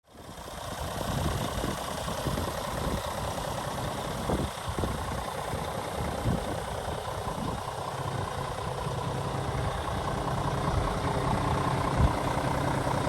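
Scania R450 truck's six-cylinder diesel engine idling steadily, with a few brief knocks near four, six and twelve seconds in.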